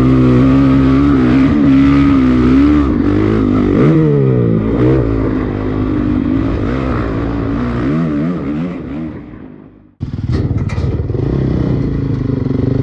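Honda CRF250 dirt bike's single-cylinder four-stroke engine revving up and down while riding, fading out about eight seconds in. After a sudden cut, a dirt bike engine runs steadily at low revs, near idle.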